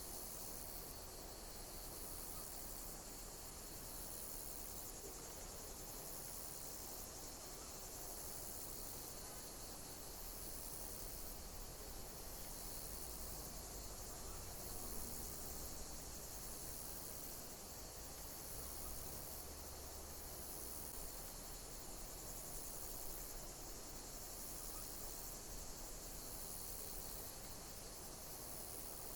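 Insects chirping in a steady chorus of high-pitched pulses repeating about once a second, over a continuous hiss.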